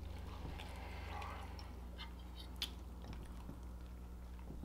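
Quiet chewing, with light clicks of metal forks against plates and one sharper click a little past halfway, over a steady low hum.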